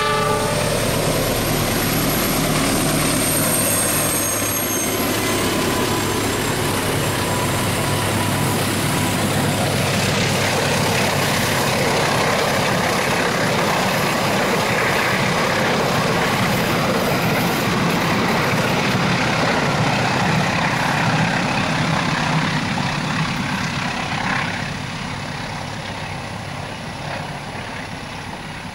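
Train passing close by a level crossing: a loud, steady rumble of wheels on rails and engine, dying away over the last few seconds.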